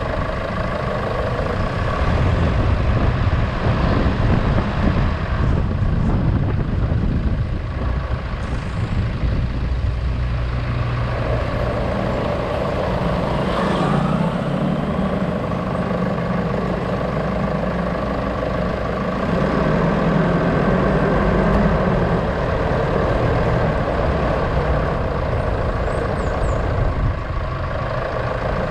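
A motor vehicle's engine running, with road and traffic noise. Its level and load shift a few times.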